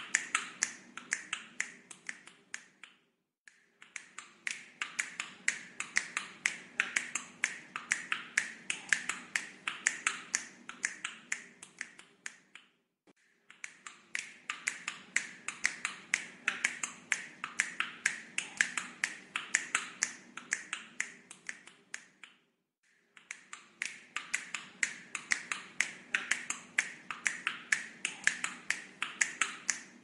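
Rapid runs of sharp clicks, several a second, in long stretches broken by short pauses about 3, 13 and 23 seconds in. This is the looped clicking sound played over and over to teach a talking parrot to copy it.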